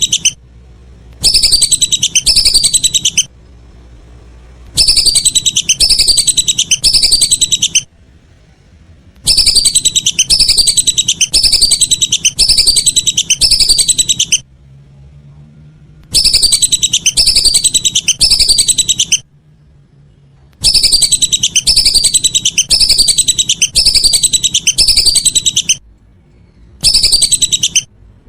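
Lesser whistling ducks (belibis) whistling: loud phrases of rapidly repeated, down-slurred whistled notes, each run lasting a few seconds before a short pause.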